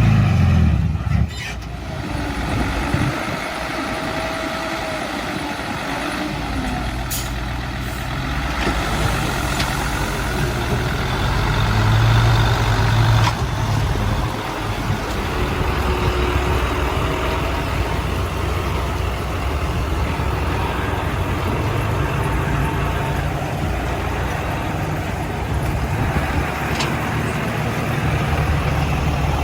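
Heavy diesel earthmoving machinery, a dump truck and a small crawler bulldozer, running and working without a break, with a few short clanks.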